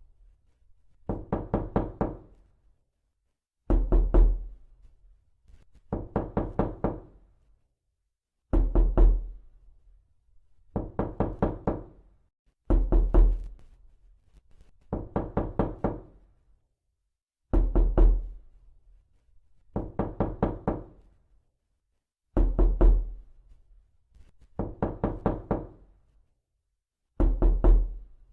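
Realistic knocking, repeated in sets of about four to five quick raps. Each louder, bass-heavy set is followed about a second later by a lighter one, and the pattern comes round every four to five seconds.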